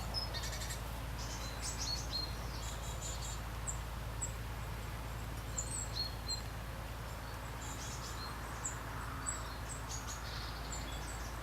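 Small birds giving many short, high chirps over a steady background of rain and low rumble.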